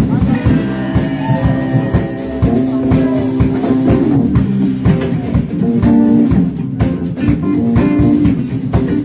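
Live band playing: electric guitar and bass over a drum kit, with a steady beat.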